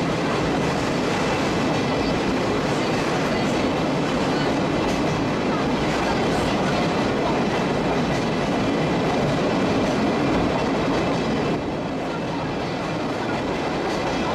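Sagano Scenic Railway trolley train running along the track, heard from aboard: a steady rumble and clatter of wheels on rails. It gets a little quieter about twelve seconds in.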